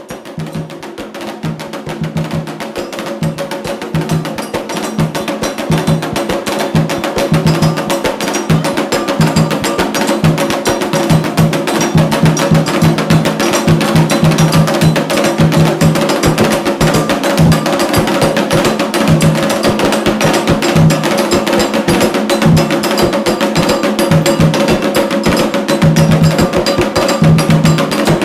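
Percussion music typical of Candomblé: drums beating a steady rhythm under a dense, rapid clicking like a wood block, fading in over the first few seconds.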